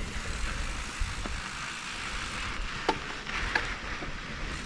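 Mountain bike rolling down a dirt trail: a steady rumble of tyre and wind noise, with a few sharp clicks and knocks from the bike about a second in and around three seconds in.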